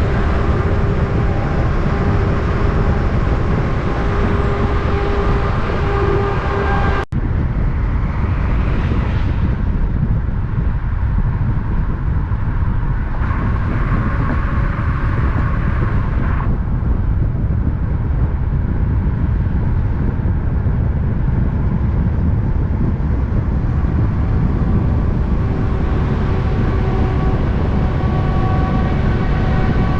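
Heavy truck traffic: diesel engines and tyre noise running steadily and loud, with a few steady whining tones on top. There is a momentary break in the sound about seven seconds in.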